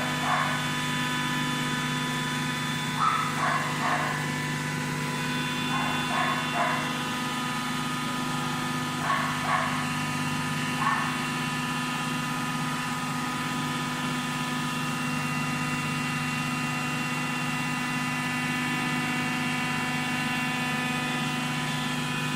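Automatic waste-paper baler's electric motor and hydraulic pump running with a steady, multi-tone hum. A dog barks a few times in short bursts in the first half.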